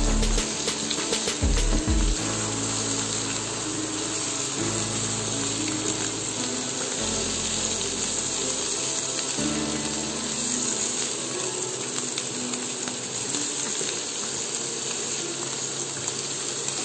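Baby potatoes and sliced mushrooms sizzling in butter in a frying pan, with a few spatula scrapes and knocks in the first two seconds. Soft background music with sustained low chords, changing every couple of seconds, plays underneath.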